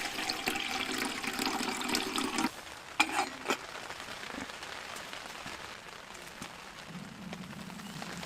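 Water pouring into a pot for tea, stopping abruptly about two and a half seconds in, then two sharp knocks, likely the pot being handled. After that, steady rain patters on the tent.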